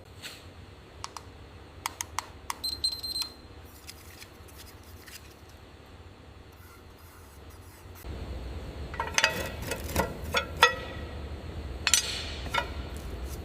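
Scattered sharp clicks and clinks, with a brief high tone a few seconds in. About eight seconds in a low steady hum comes up, and two quick clusters of clinking follow.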